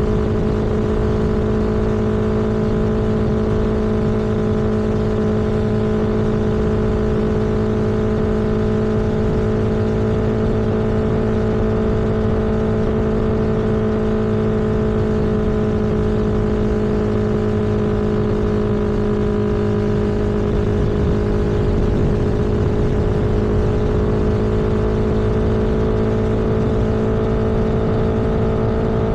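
A vehicle engine and road noise at a steady cruising speed. It is a constant hum with a strong steady tone and overtones, rising slightly in pitch near the end.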